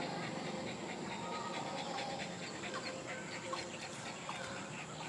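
A dog panting steadily over a constant background hiss.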